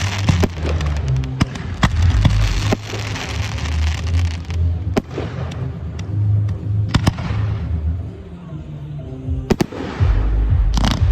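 Firework display shells going off in a run of sharp bangs, with a crackling hiss over the first few seconds, against music with a heavy bass beat.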